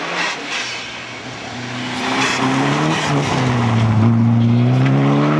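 Rally car engine running hard at high revs as the car slides on snow, its pitch dipping briefly about three seconds in and then holding steady; a hiss of spinning tyres and sprayed snow comes first.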